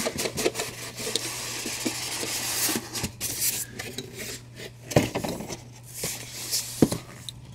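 Packaging rubbing and scraping as a statue and its box are handled, with a few sharp knocks about three, five and seven seconds in.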